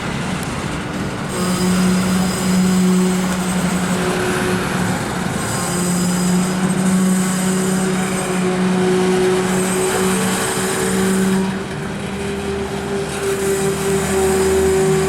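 A train rolling past, with a steady low hum and high-pitched wheel squeal that comes and goes several times.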